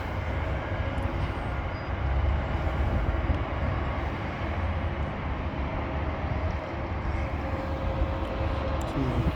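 Steady outdoor city noise through an open window high above the street: a continuous low rumble with a hiss over it.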